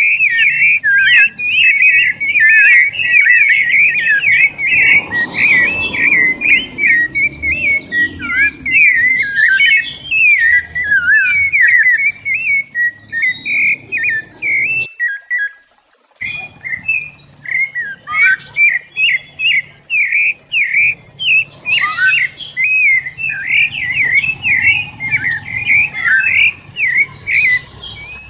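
Sabiá thrush singing a fast, nearly unbroken song of clear whistled notes that bend up and down, with thin high chirps above; the song drops out for about a second midway, then resumes.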